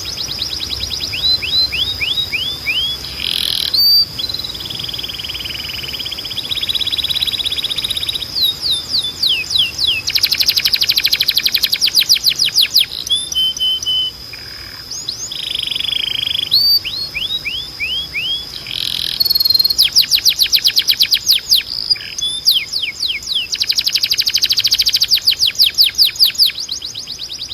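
Canary singing a long, varied song. It moves between runs of quick falling notes and fast rolling trills, over a steady high whistle-like tone.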